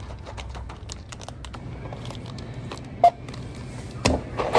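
Rapid light clicks and taps over a low steady hum, with one short beep about three seconds in and a louder knock near the end.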